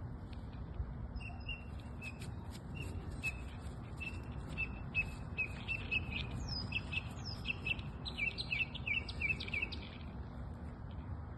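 A bird singing a string of high chirping notes, with a few falling whistles midway and quicker, closer-spaced notes near the end, over a steady low background rumble.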